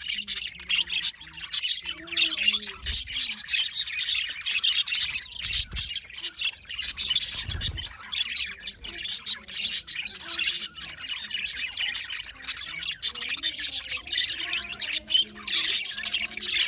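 A flock of budgerigars chattering, many rapid overlapping chirps and squawks running on without a break.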